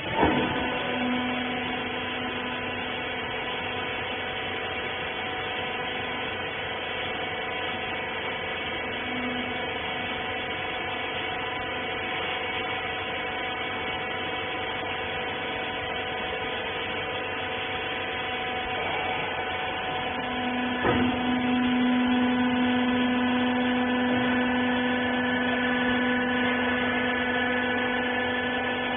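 Wiper-rag baler's electric motor and hydraulic pump running with a steady hum. A click comes just after the start and again about 21 seconds in, after which the hum grows louder.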